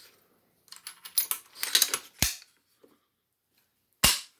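Brass rifle case and AR-type rifle parts clinking and rattling for about a second and a half, ending in a sharp click, then one loud metallic snap near the end as the rifle is snapped closed over the resized case.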